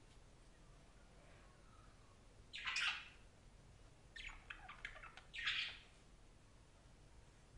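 Budgerigar calling: a loud harsh call about two and a half seconds in, a quick run of short chirps a second later, then another harsh call.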